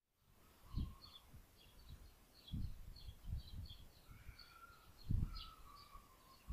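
Small garden birds chirping in many short, high notes. Three low, dull thumps stand out above them, about a second in, two and a half seconds in and five seconds in.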